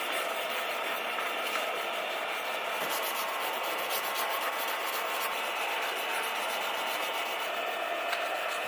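Steady hand rubbing or sanding on a small scale-model car part.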